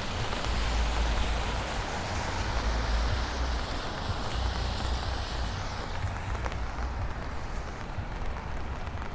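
Steady hiss of moderate rain and traffic on wet streets, with wind gusting on the microphone as an uneven low rumble. The high part of the hiss eases after about six seconds.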